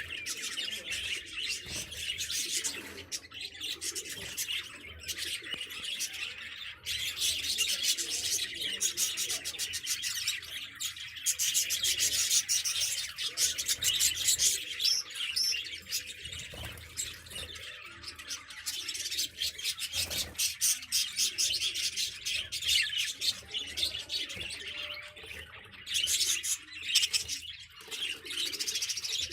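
A flock of budgerigars chattering and chirping continuously: dense, high-pitched twittering that swells and eases.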